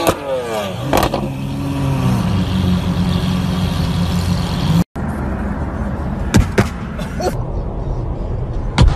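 Car engine with a loud exhaust, revs falling away with a sharp crack about a second in, then running steadily at low revs. After an abrupt cut, another engine runs with a few sharp cracks.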